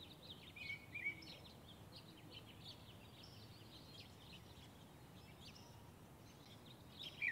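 Faint, busy chirping of small birds, with a couple of louder calls about a second in and a sharper one right at the end.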